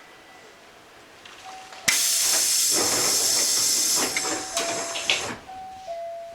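A sudden loud burst of compressed-air hiss from a Hankyu 8000 series train that lasts about three seconds and then tails off. After it a faint steady tone steps back and forth between two close pitches.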